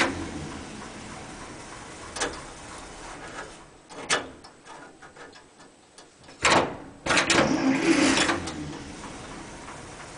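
Starter cranking the cold, unrebuilt International Harvester Green Diamond 214 flathead six in short stomp-pedal bursts: one burst ends just at the start and another runs for about a second from about 7 s in, with sharp clicks in between, and the engine does not catch.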